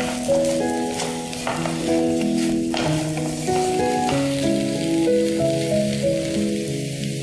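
Potato pieces frying in hot oil, sizzling steadily with sharp crackles, under background music with a gentle melody.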